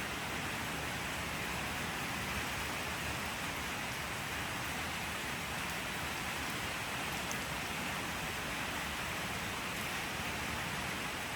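Steady rain falling, an even hiss of many drops on surfaces that holds constant without letting up.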